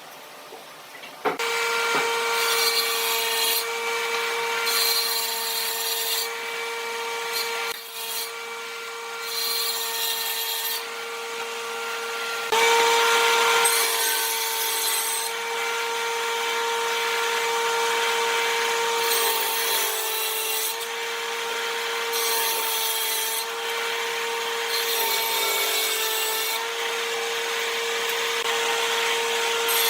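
Electric power tool starting up about a second in and running with a steady whine while it cuts wood. A rasping cutting noise comes and goes every second or two as it is worked over the wood in repeated passes.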